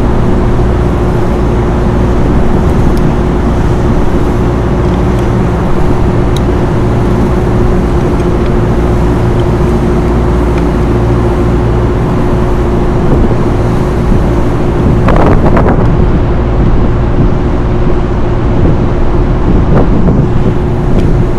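Steady droning hum of running rooftop machinery with a constant tone, and a few faint clicks and knocks from work on the fan housing.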